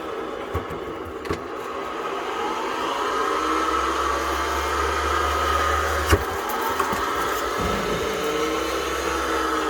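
Tennis ball machine running, its motors whirring with a pitch that slowly rises and falls, and one sharp knock about six seconds in.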